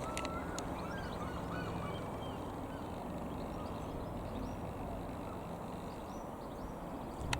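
Birds calling with many short chirps, thickest in the first couple of seconds and again near the end, over a steady low drone.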